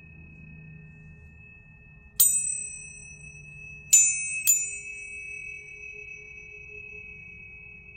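Planetary tuning forks ringing: a steady high tone and a lower tone sound throughout. Forks are struck three times, once about two seconds in and twice in quick succession around four seconds in, each strike giving a bright metallic ping that fades quickly into the sustained ring.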